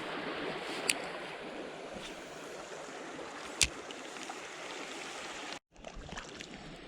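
Creek water running steadily, with two short sharp clicks, about a second in and again about three and a half seconds in. The sound cuts out for a moment near the end.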